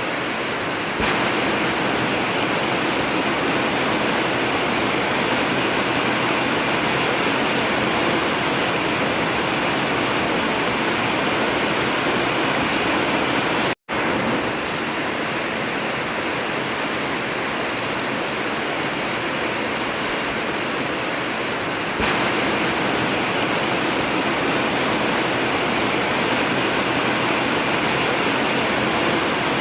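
Heavy rain falling steadily on an old zinc metal roof, a dense even hiss. It cuts out to silence for an instant about halfway through, and grows a little louder about a second in and again about three-quarters of the way through.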